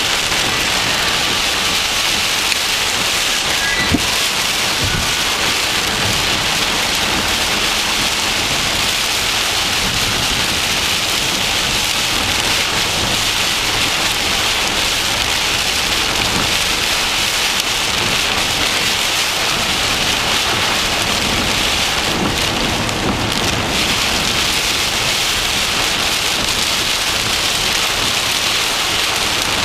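Heavy rain beating on a vehicle in a thunderstorm, a loud, steady dense hiss, with one sharp knock about four seconds in.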